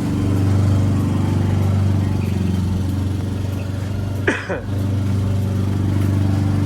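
Motor vehicle engine idling steadily, with a brief high sound sliding sharply down in pitch about four seconds in.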